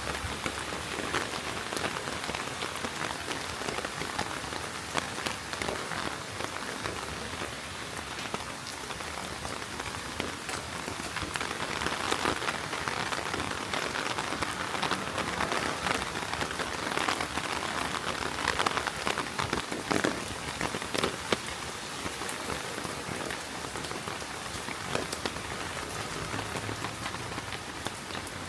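Heavy rain falling steadily: a dense hiss with many sharp, close drop hits scattered through it.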